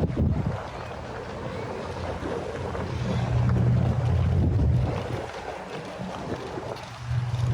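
Wind gusting on the microphone: a low rumble that swells and fades, loudest in the middle, with a short buffet at the very start.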